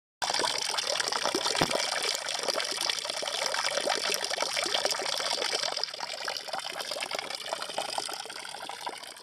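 Waterfall: a steady, dense rush of falling water that starts abruptly just after the beginning and eases slightly in the last few seconds.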